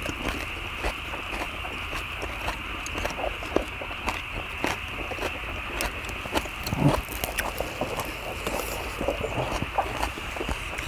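Close-miked chewing and mouth sounds of people eating lettuce wraps of kimchi and stir-fried pork, with frequent small clicks from chopsticks and food, over a steady hiss and low hum. One louder thump about seven seconds in.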